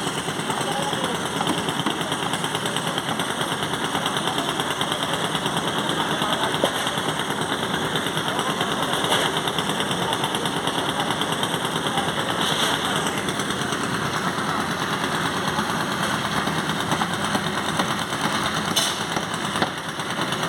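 Engine-driven construction machinery running steadily with a fast, even rattle.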